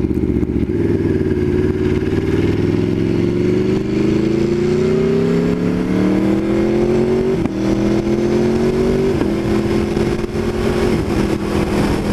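Aprilia Tuono V4 1100 Factory's V4 engine, heard from the rider's seat, pulling hard under acceleration. Its pitch climbs steadily for about seven seconds, then drops sharply twice, about seven and nine seconds in, as it shifts up through the gears.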